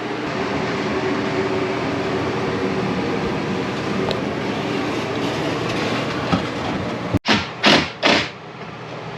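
Motorhome rooftop air conditioner running steadily. Near the end it cuts out briefly and is followed by three short loud noisy bursts.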